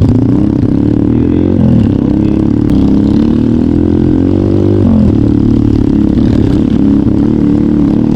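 Trail motorcycle engine running under way, its note dipping and picking up again twice, about one and a half seconds in and again about five seconds in.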